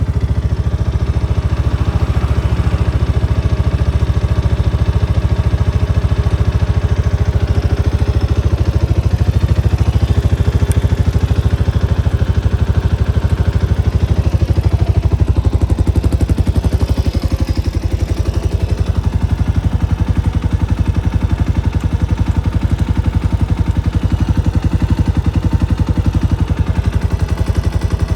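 Kawasaki Estrella RS's air-cooled 250 cc single-cylinder four-stroke engine running steadily, with a rapid, even exhaust beat.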